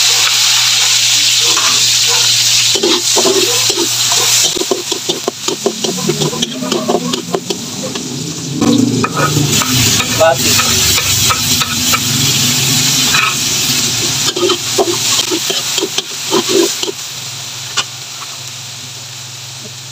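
Sliced onion and tomato sizzling in hot oil in a steel wok, loud at first and dropping about four seconds in. Through the middle a spoon clinks and scrapes against the wooden cutting board and the wok as the vegetables are pushed in and stirred. The clatter stops near the end, leaving a low steady hum under a fainter sizzle.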